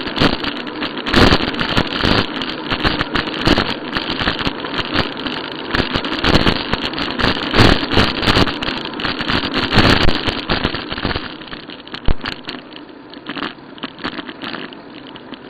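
Riding noise on a moving bicycle: wind buffeting the microphone with many rattles and knocks from the bike and camera on a rough path, easing off about eleven seconds in.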